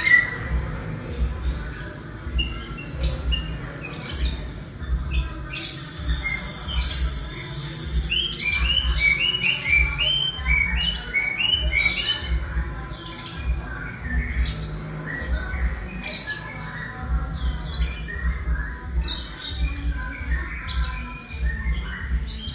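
Young white-rumped shama, about eleven months old, singing a varied run of lyrebird-style mimicry: quick chips and repeated short notes, with a long raspy buzz about six seconds in.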